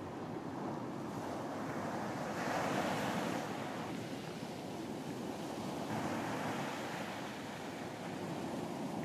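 Surf breaking on a beach, a steady wash with a wave swelling and breaking about two and a half seconds in and another at about six seconds, with some wind.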